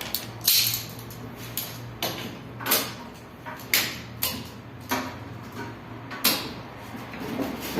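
Knocks, clunks and scrapes as a window air conditioner's fan motor, its mounting nuts removed, is worked loose and pulled out of the unit. There are about six sharp knocks, spread irregularly.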